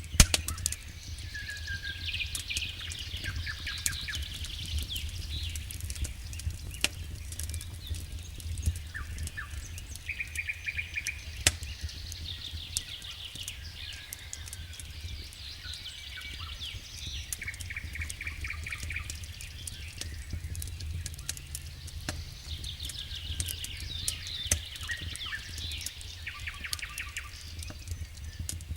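Wood fire in a fireplace crackling with scattered sharp pops over a low steady rumble. Small birds sing repeated trilled phrases every few seconds.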